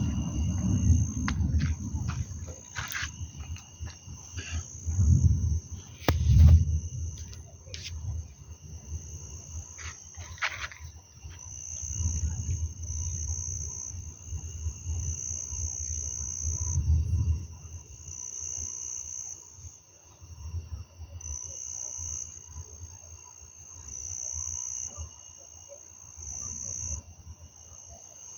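Thunder rumbling deep and low several times, loudest about six seconds in, over a steady high-pitched chirping of insects that comes in pulses. A few sharp clicks come in the first ten seconds or so.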